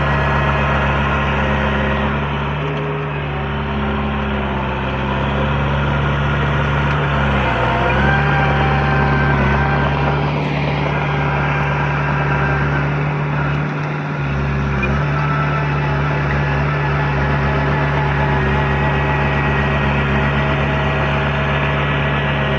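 Heavy diesel engine of earthmoving equipment running steadily under load, its pitch sagging briefly twice.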